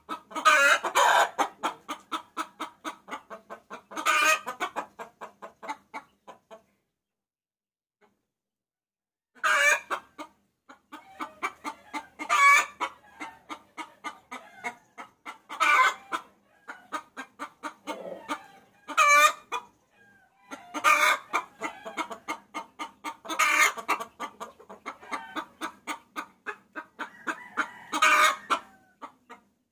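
Hen cackling: a rapid run of clucks, about ten a second, with a louder, higher squawk every few seconds. It stops for about three seconds roughly a quarter of the way in, then starts again. This is a hen's call to roosters, the kind used as a lure.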